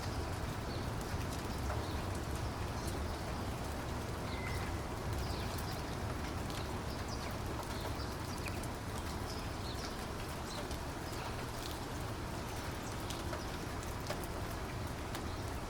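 Steady rainfall with scattered sharp raindrop ticks over a low rumble.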